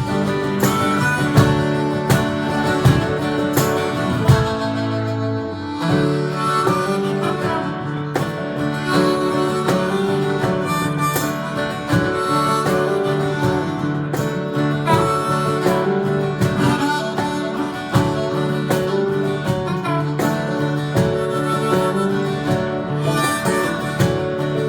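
A live Americana band plays an instrumental break, with a harmonica taking the lead over strummed acoustic guitar and a steady beat.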